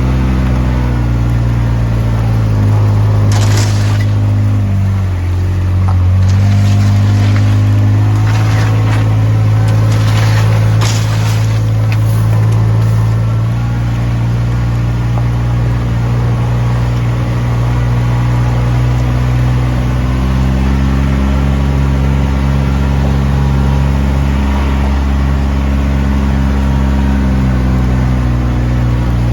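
A vehicle's engine running steadily as it drives slowly, its pitch dipping and rising again a few times. Several short hissing rasps come between about three and thirteen seconds in.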